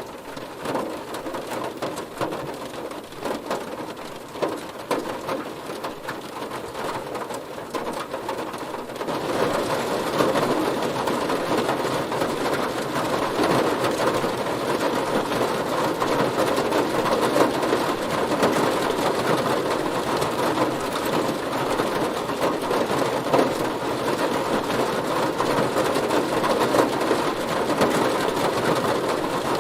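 Heavy rain drumming on a car, a dense patter of drops that grows louder and heavier about nine seconds in and then holds steady.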